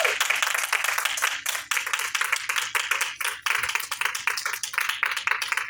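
A crowd clapping: dense, irregular hand claps that go on steadily and stop abruptly right at the end.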